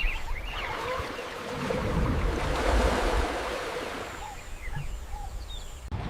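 A steady rushing noise of water or wind, with a few short, faint chirps over it; the sound changes abruptly just before the end.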